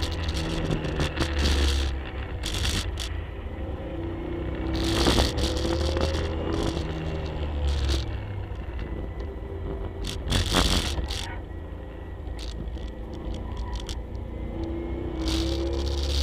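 1967 Camaro's engine heard from inside the cabin while lapping a road course, its pitch rising and falling as it is driven up and down the rev range. Loud bursts of rushing noise cut in at intervals, strongest about five and ten seconds in.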